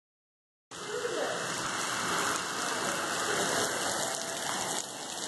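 Heavy rain pouring down in a thunderstorm, a dense, steady hiss. It cuts in abruptly about a second in, after a moment of dead silence.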